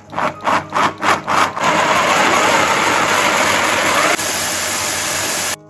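Electric blender pulsed in about five short bursts, then run steadily, puréeing tomato momo sauce into a fine paste. The motor note drops a little near the end and then cuts off suddenly.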